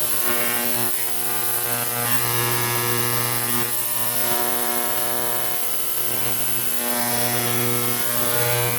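Ultrasonic parts cleaner running, a steady electric buzz from its transducers with a slight waver, as it cleans carburetor parts in a bath of Simple Green degreaser.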